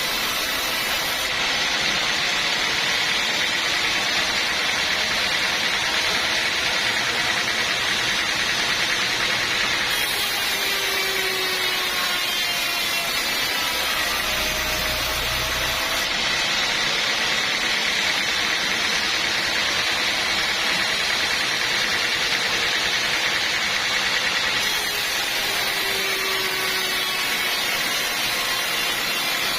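Sawmill saw running continuously with a steady high whine. Its sound shifts several times as the work goes on.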